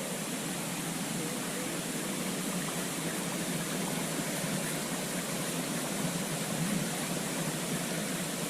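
Steady rushing roar of a waterfall's falling water, an even noise without breaks.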